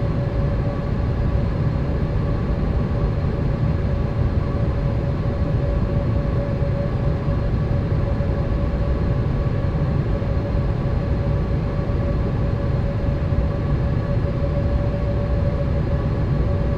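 Steady cabin noise inside a Boeing 787: an even, low-weighted rumble of engines and airflow with a steady hum over it, unchanging throughout.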